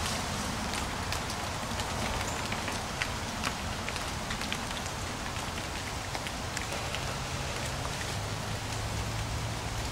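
Steady rain pattering: an even hiss made of many small drop ticks. A low steady hum joins about two-thirds of the way through.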